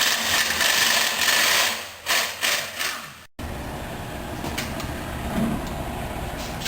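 Loud mechanical noise in several spurts for about three seconds, cutting off suddenly to a quieter steady background with a few faint clicks.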